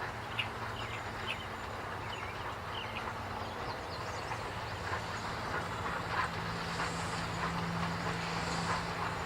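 East Broad Top narrow-gauge train running along the track: a steady rumble with scattered clicks and squeaks from the wheels and cars, getting a little louder in the second half.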